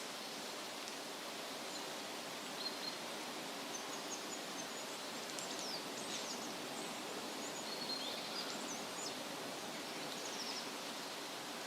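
Wind rustling through leafy trees as a steady hiss, with small birds chirping now and then above it, a few short high chirps at a time.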